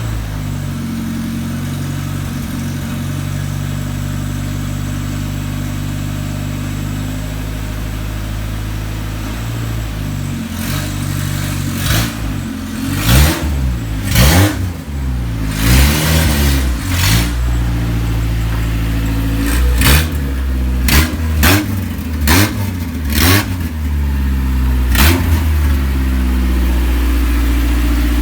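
Isuzu 4ZE1 four-cylinder petrol engine, freshly rebuilt top end, idling steadily. From about a third of the way in it is blipped about ten times, each rev rising and falling quickly. It then settles to a steady, slightly higher idle near the end.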